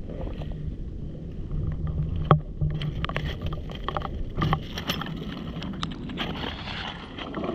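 Rocks, bricks and debris knocking and scraping as they are turned over by hand in the foreshore mud: a handful of sharp clicks over a steady low rumble.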